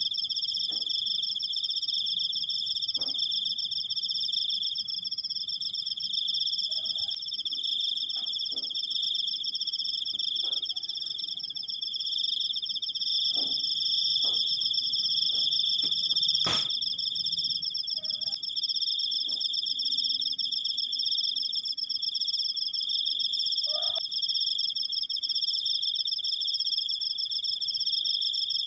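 Cricket singing one long, unbroken high-pitched trill made of very rapid pulses. There is a single sharp click a little past the middle.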